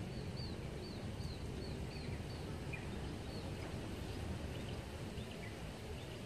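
A small bird chirping: short, high notes about twice a second for the first two and a half seconds, then scattered calls, over a steady low background rumble.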